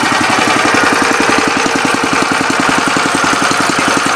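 Small single-cylinder petrol engine of a 6.5 pressure washer running steadily with an even, rapid firing beat.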